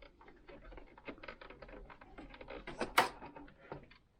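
Plastic housing of a Singer sewing machine being pried and worked at by hand: a run of small irregular clicks and creaks, with one louder sharp snap about three seconds in.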